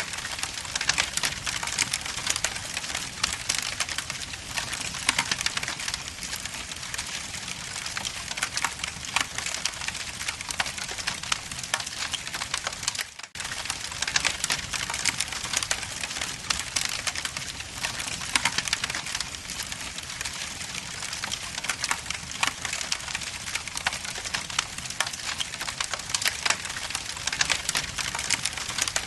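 Wood logs burning in a fireplace, crackling steadily with many quick pops and snaps. There is a brief break in the sound about halfway through.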